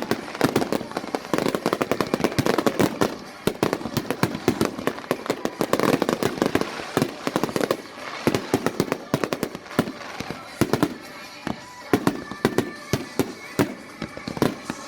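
Aerial fireworks display going off in a dense, continuous string of bangs and crackles, many per second.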